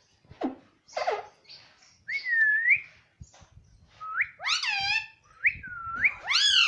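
Pet parrot giving a series of short whistled calls, each a swooping glide in pitch, one after another with brief gaps.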